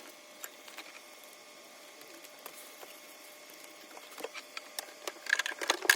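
Light scattered clicks and taps of spark plug wires and their boots being handled, busier near the end with one sharp click.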